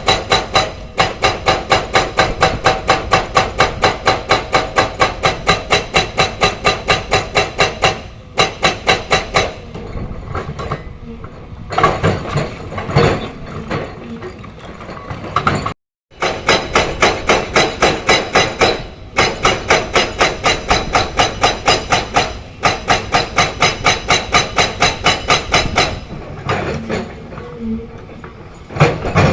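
Excavator-mounted hydraulic rock breaker hammering limestone in fast, even blows, several a second, in long runs that stop and restart. Between runs the excavator's engine and irregular scraping and clanking of rock are heard, and the sound cuts out for an instant just past halfway.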